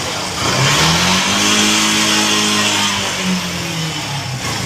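Yamaha Fazer 2.0's single-cylinder engine revved in gear on the stand, its pitch rising about a second in, holding, then easing off, while the rear wheel and drive chain turn. The chain makes a light 'kat kat' clacking, the sign of the chain problem being shown.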